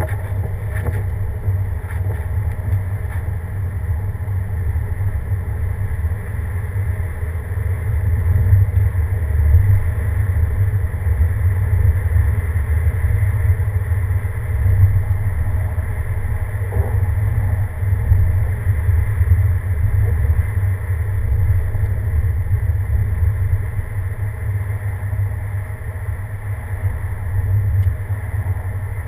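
Vehicle driving steadily: a continuous low rumble of engine and road noise that swells a little in the middle and eases again near the end.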